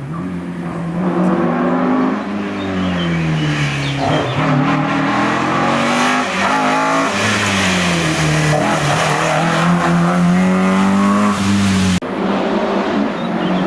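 Rally car engine working hard on a special stage, revving up and dropping back again and again as it shifts gears and brakes for corners. About twelve seconds in the sound changes abruptly to a steadier engine note.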